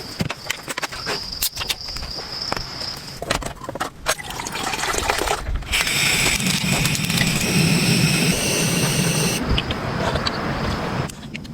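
Raindrops pattering as many separate sharp taps, then a louder steady rushing noise that sets in about four seconds in, lasts several seconds and eases near the end.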